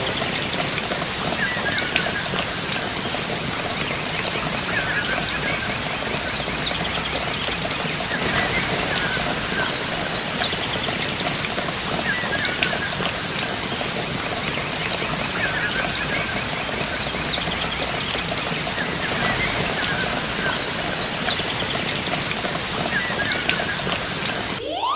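Steady rush of falling water with a bird calling at regular intervals, a short curved call about every two to three seconds, over a thin steady high whine. The sound cuts off abruptly just before the end.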